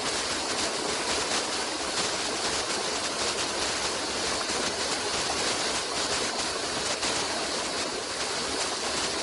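Running water flowing steadily, an even rushing hiss with no other sounds in it.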